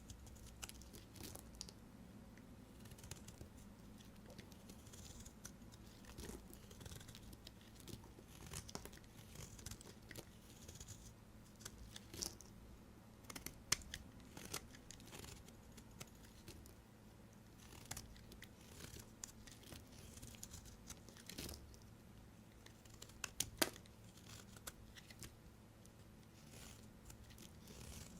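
A knife cutting through bars of soap: faint scraping and crisp crackles as the blade works through, with two louder sharp snaps, one about halfway and one near the end.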